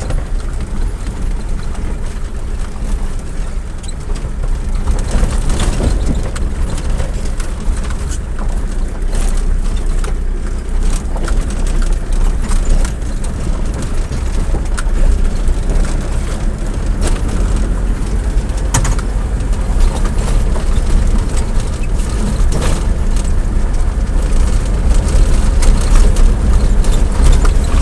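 A vehicle running on the road: a steady engine and road rumble, heaviest low down, getting somewhat louder near the end.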